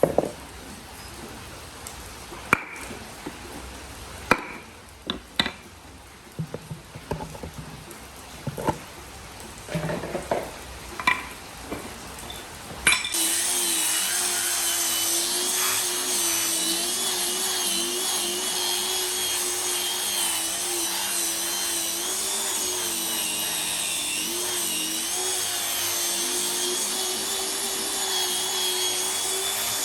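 Scattered knocks of wood and tools being handled, then, a little under halfway through, an electric power tool starts and runs steadily to the end with a whine that wavers slightly as it works the wood.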